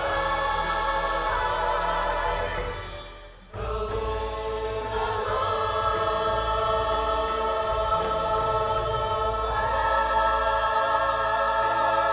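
Choir singing long, held chords. About three seconds in the sound fades away, and half a second later a new phrase starts abruptly.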